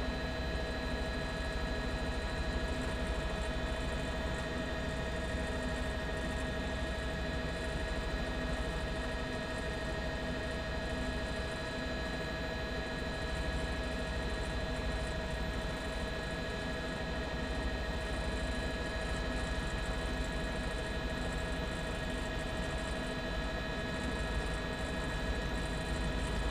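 Helicopter engine and rotor noise heard from aboard: a steady drone over a low rumble, with several constant high tones that do not change.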